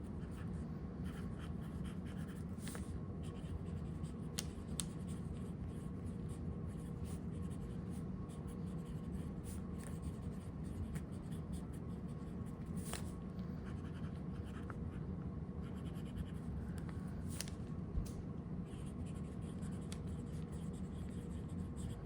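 Broad-nib TWSBI Eco-T fountain pen writing on paper: soft nib scratching with a few faint ticks, over a steady low hum.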